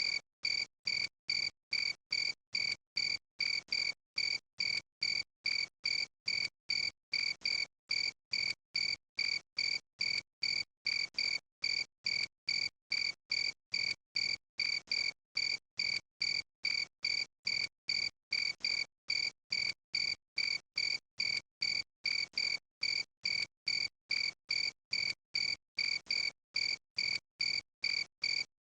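Cricket chirping in a steady, even rhythm, about two to three short high chirps a second at an unchanging pitch.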